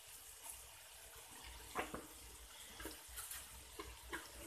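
Faint sizzling of onions and spices frying in oil in a pan: a steady hiss with a few brief crackles.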